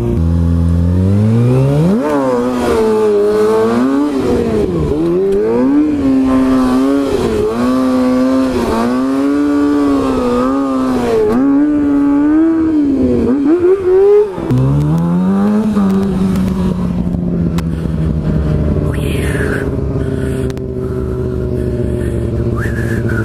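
Kawasaki Ninja ZX636 inline-four sport-bike engine revving up hard, then its revs rising and falling over and over as the throttle is worked. About fourteen seconds in the revs drop sharply and climb again, then the engine runs on at steadier, slowly falling revs.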